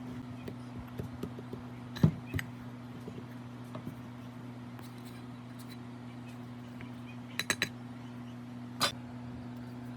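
A steady low electrical hum with a few sharp taps and clinks over it: one about two seconds in, a quick run of three near three quarters of the way through, and one more shortly after.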